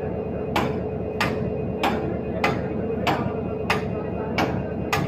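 Diesel locomotive running with a steady hum, with a sharp knock repeating a little under twice a second throughout.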